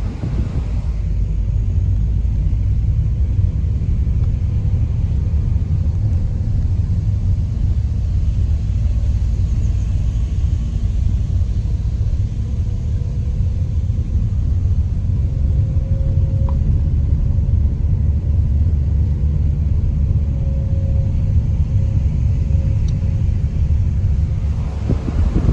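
Steady low rumble of a car driving on the road, with a faint steady hum above it.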